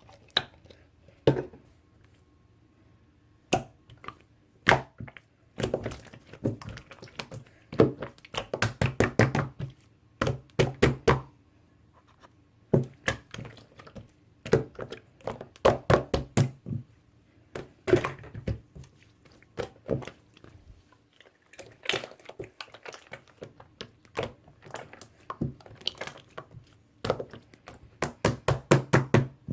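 Slime being squished and poked by hand, giving irregular runs of sharp clicks and pops with short pauses between them.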